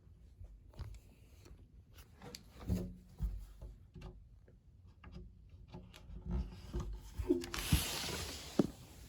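Scattered light clicks, knocks and rubbing, as of objects being handled indoors, with a short rushing hiss about seven to eight and a half seconds in.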